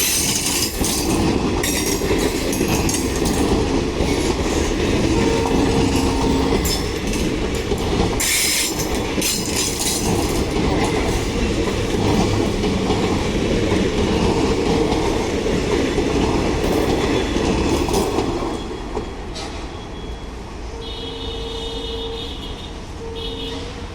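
Passenger train rolling past, its wheels clattering over rail joints with bursts of high wheel squeal. The noise eases off about 18 seconds in, and a horn sounds twice briefly near the end.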